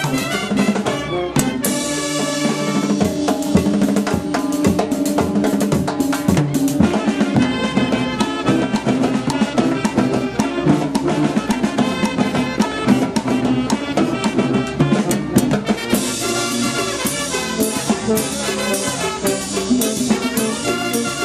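Live Peruvian banda orquesta playing a dance tune: brass section over drum kit and percussion with a steady beat.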